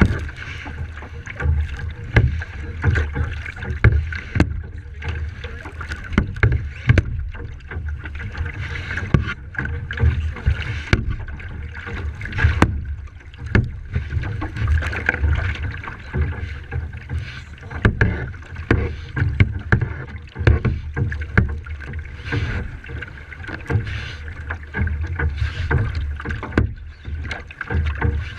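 Water sloshing and splashing against a kayak in uneven surges, over a low rumble of wind buffeting the microphone.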